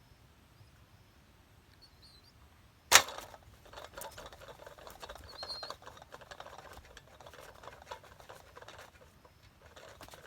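A homemade tin-can bird trap snapping shut with one sharp loud snap about three seconds in, followed by continuous scratching and fluttering from a trapped bird, with a couple of faint high chirps.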